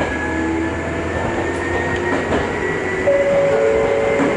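Ohmi Railway electric train pulling away from the station, heard from inside the car: a steady running rumble of wheels on rail with a faint motor whine slowly rising in pitch as it gathers speed, and a few light knocks from the track.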